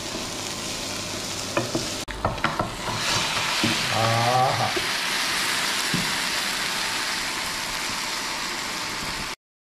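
Food sizzling and frying in a hot non-stick pan as it is stirred with a wooden spoon, with a few spoon knocks and scrapes against the pan. There is a short break about two seconds in, and the sizzle cuts off near the end.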